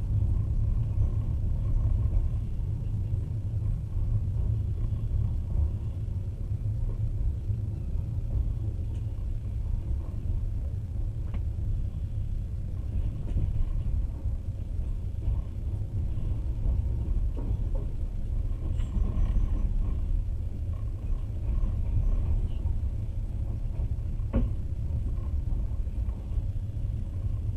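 Passenger train running along the rails, heard from inside the carriage as a steady low rumble, with a couple of faint clicks.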